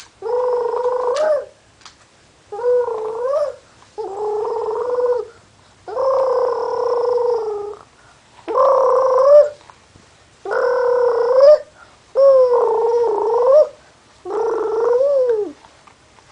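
A baby cooing in about eight drawn-out, even-pitched coos, each around a second long and bending up or down at its end, coming about every two seconds.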